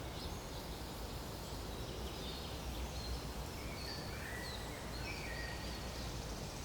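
Outdoor nature ambience: a steady background hiss and rumble with faint, short bird chirps from about two seconds in.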